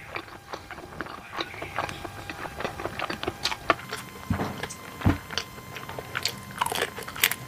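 A person chewing and biting sushi and tempura close to the microphone: a string of irregular short mouth clicks, with a couple of louder knocks about halfway through.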